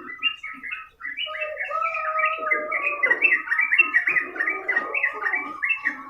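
Yellow-vented bulbul (trucukan) singing continuously in full song, a fast run of short bubbly notes with a brief pause about a second in.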